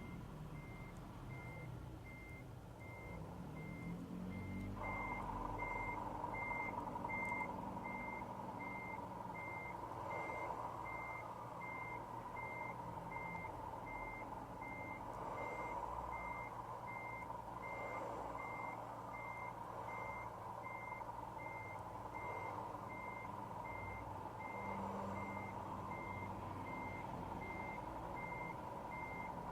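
Scania R450 truck's straight-six diesel running steadily, with a high electronic beep repeating about one and a half times a second throughout, of the kind a reversing alarm gives. From about five seconds in, a steady mid-pitched hum joins the engine sound.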